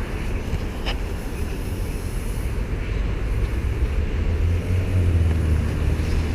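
Road noise from a moving bicycle on a busy boulevard: a dense low rumble of wind on the microphone and passing traffic. A low vehicle hum swells about four to six seconds in.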